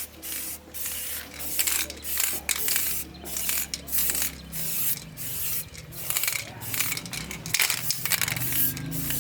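Repeated short bursts of hissing spray, about two a second and unevenly spaced, over a low steady hum that cuts off about halfway through.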